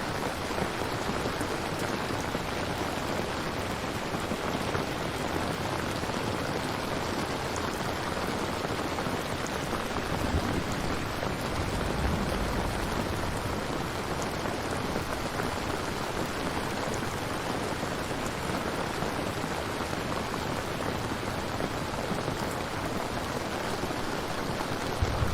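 Steady heavy rain falling and pattering on a surface during a thunderstorm. A low rumble swells about ten seconds in and fades a few seconds later.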